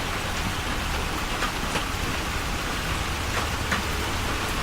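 Steady rain falling, an even hiss with a few scattered drops ticking through it.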